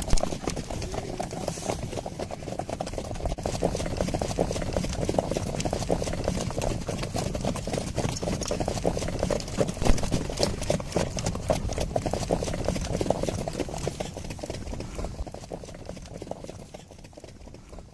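Hoofbeats of a group of Icelandic horses at the tölt, their four-beat ambling gait, a fast, dense clatter of hooves. It fades over the last few seconds.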